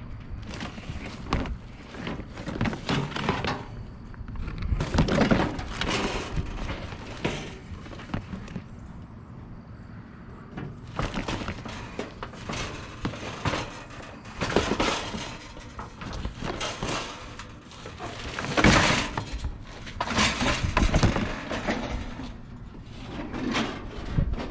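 Junk being rummaged and handled in a dumpster: irregular clattering, knocking and banging of hard objects, with several louder crashes.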